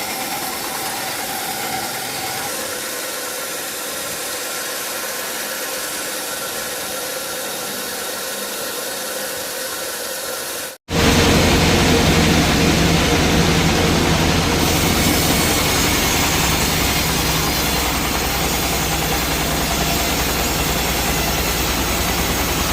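Sawmill machinery running steadily with engine noise. About eleven seconds in, the sound drops out for an instant and comes back louder, with a deeper, steady engine hum.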